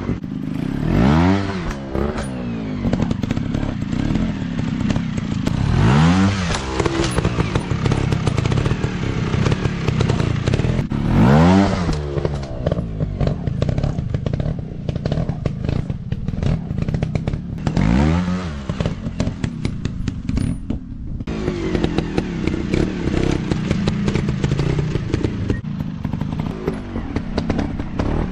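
Dirt bike engine revving up and down repeatedly, its pitch climbing and falling about every five or six seconds, with rattling and clattering throughout.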